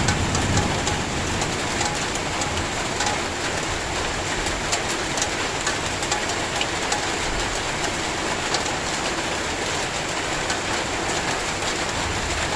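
Heavy rain falling steadily, with scattered sharp ticks of drops striking a hard surface.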